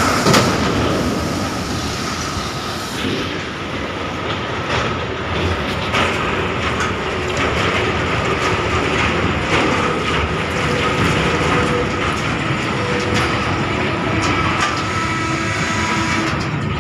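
A train moving along the track, its wheels clattering over the rails in a steady, loud run of irregular clicks and knocks.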